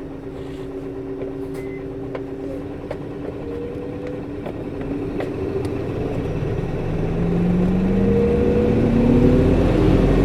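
Interior running sound of a Nissan Diesel Space Runner RA city bus (PKG-RA274KAN). The engine hums steadily at first, then from about six seconds in it speeds up, rising in pitch and getting louder as the bus accelerates. The engine's coupling fan is engaged and sounds high for the engine speed.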